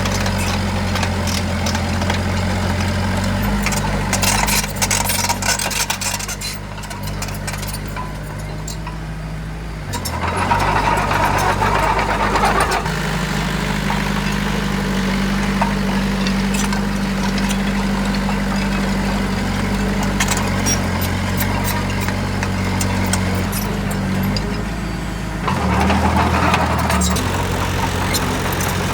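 Heavy diesel engine of earthmoving machinery running steadily, its engine note shifting about ten seconds in and again near the end.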